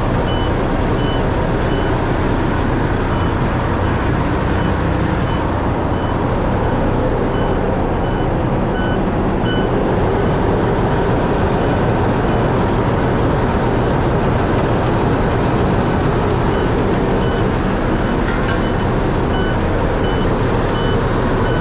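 Semi-truck diesel engine running steadily at raised idle. A short, high warning beep repeats about twice a second through roughly the first half, then mostly stops.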